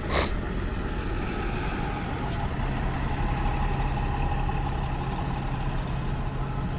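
City transit bus engine running at idle with a steady low hum, after a short sharp hiss of air at the very start.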